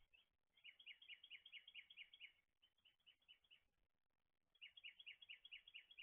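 A songbird singing faintly: two rapid trills of short, downslurred chirps at about ten notes a second, one starting about half a second in and another near the end, with a few loose notes between.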